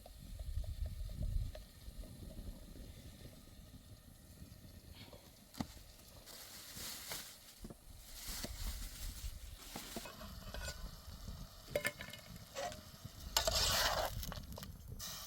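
Food frying in a pan while it is stirred: scraping and small clinks, with two spells of sizzling hiss, one in the middle and a louder one near the end.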